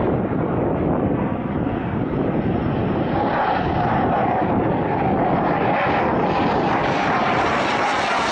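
BAE Hawk jet trainer's single Rolls-Royce Adour turbofan running as the jet passes, a steady rush of jet noise. A steady whine comes in about three seconds in and fades near the end.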